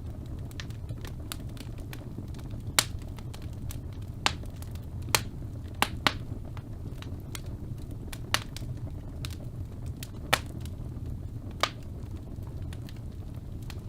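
Wood fire burning in a fireplace: a steady low rumble of flames with irregular sharp crackles and pops, a handful of them louder than the rest.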